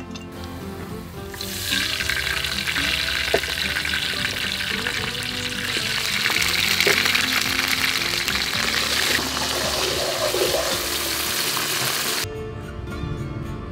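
Chopped garlic sizzling in hot oil in a wok, a dense frying hiss that starts about a second and a half in and cuts off abruptly near the end, over background music.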